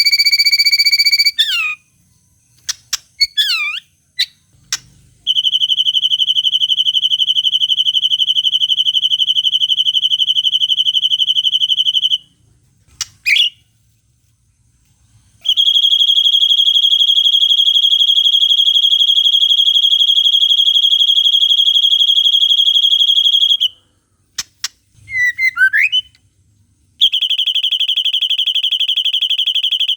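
White-rumped shama (murai batu) song made up of long, unbroken, buzzing trills held on one pitch for seven or eight seconds at a time, the 'cililin panjang' shots. Short sweeping chirps fill the gaps between the trills: a few just after the start, one in the middle and one shortly before the last trill begins near the end.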